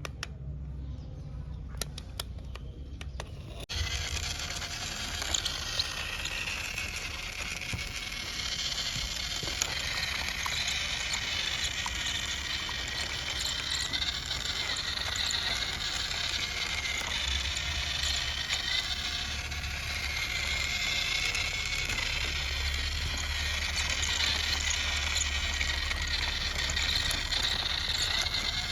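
Remote-control toy tractor's small electric motor and plastic gears running with a rough, rattling whir. The whir starts about four seconds in, after a low hum and a few clicks.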